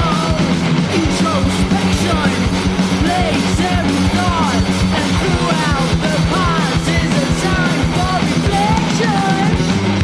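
A rock song with electric guitars, drums and a singer.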